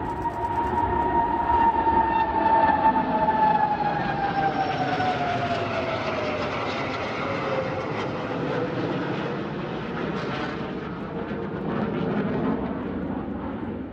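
Jet aircraft passing by with a rushing roar; the engine whine falls steadily in pitch as they go past. The noise is loudest a couple of seconds in and then slowly fades.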